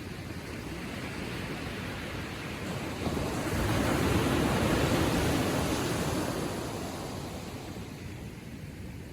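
Gentle ocean waves lapping on a sandy shore: one wave breaks and washes up the beach, swelling about three seconds in and then fading away.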